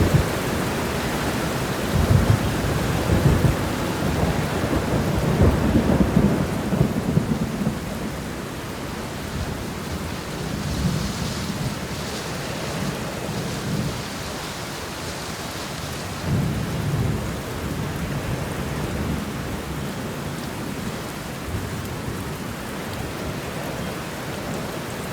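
Steady rain shower with low rolling thunder, the rumbling heaviest in the first seven seconds or so and returning briefly about two-thirds of the way through.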